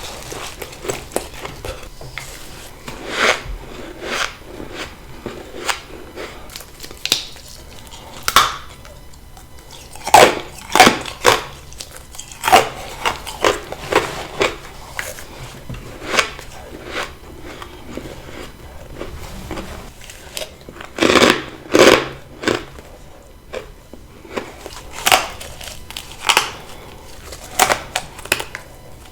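Bites into freezer frost: crisp crunches at irregular intervals, with the loudest runs of bites about ten and twenty-one seconds in.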